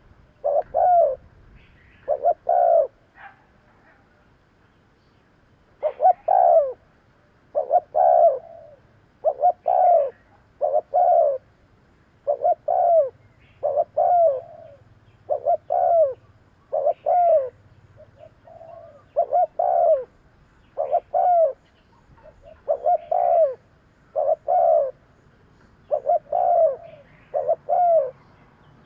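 Spotted dove cooing: a long series of short coos, many in close pairs, roughly one every second, with a pause of a few seconds near the start.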